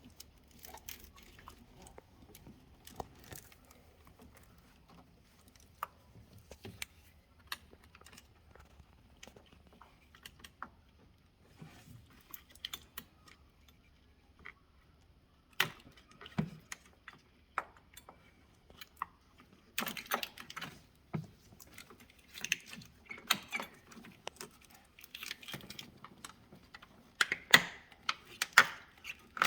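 Irregular metallic clicks and clinks of hand tools and engine parts being handled during engine teardown work. They come in scattered taps at first and grow busier and louder from about two-thirds of the way in.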